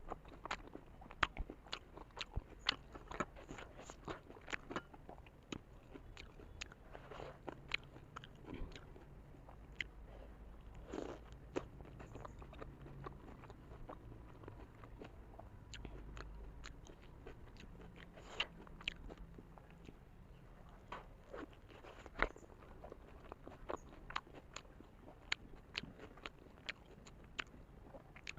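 Close-miked chewing and biting of a large momo dumpling: many irregular wet mouth clicks and smacks, thick in the first few seconds and sparser after.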